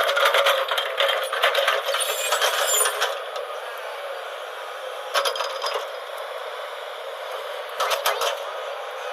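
JCB backhoe loader at work, with a steady machine hum and three bursts of clattering and rattling: a long one over the first three seconds, shorter ones about five and about eight seconds in, typical of soil and stones tumbling from the bucket.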